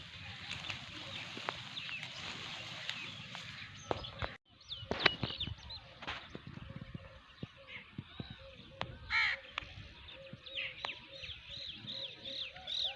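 Outdoor birds calling and chirping, with many short high calls and one louder harsh call about nine seconds in; the sound cuts out briefly about four seconds in.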